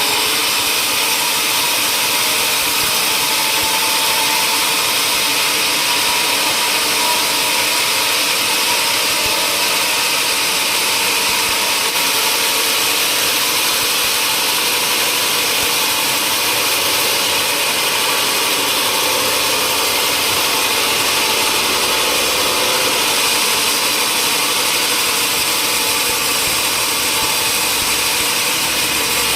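Woodworking machinery running steadily, a loud, even, hissing machine noise that holds at one level throughout.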